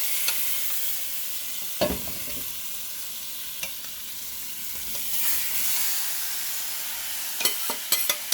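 Chicken pieces sizzling in hot oil with curry powder that was burnt out before the meat went in, swelling louder about five seconds in. A utensil knocks against the pot about two seconds in, and there are several quick knocks near the end.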